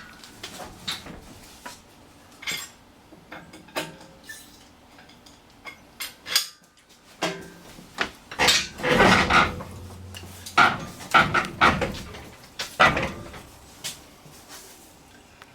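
Metal clanking and clinking of tools and parts as the engine and transmission are worked into place, a few scattered knocks at first and a busier, louder run of clanks and rattles in the second half.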